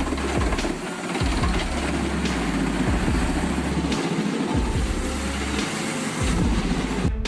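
Heavy machinery running under load: a loud, continuous engine and grinding din with occasional sharp knocks, over a pulsing low bass that cuts off abruptly near the end.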